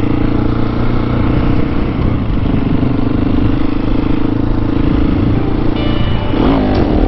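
Husqvarna 701 supermoto's single-cylinder engine running at a steady cruise, with wind rushing past; near the end the engine note shifts briefly.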